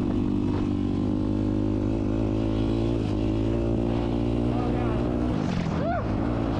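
Yamaha YZ250 two-stroke motocross bike engine running at steady revs, its note falling about five seconds in.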